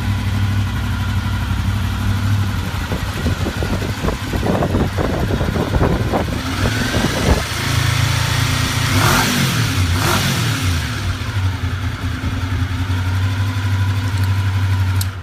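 1986 Honda VFR750's V4 engine idling, revved briefly twice a little past the middle and settling back to a steady idle each time. The sound cuts off suddenly at the end.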